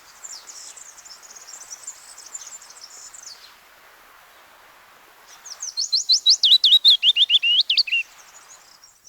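Willow warbler singing. A fainter high twittering phrase comes first. After a short pause, a loud song phrase of clear whistled notes slides down the scale, getting louder and fuller as it drops, and ends about eight seconds in.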